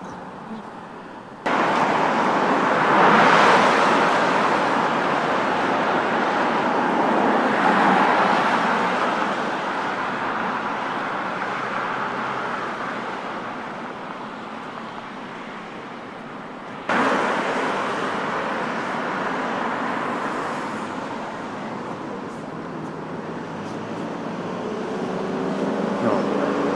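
Road traffic: cars going by, their tyre and engine noise swelling and fading. The level jumps suddenly about a second and a half in and again about seventeen seconds in.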